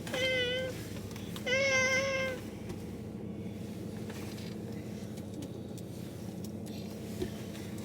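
A young child's voice making two short, high, wordless whining calls in the first couple of seconds, over a steady low hum.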